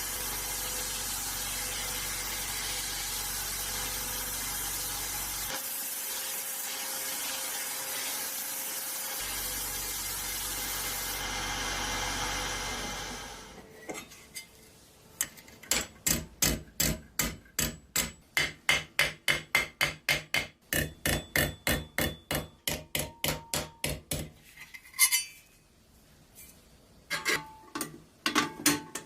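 A steady hiss for about the first half, then a hammer striking over and over in a quick even rhythm, about three blows a second, with a few scattered knocks near the end.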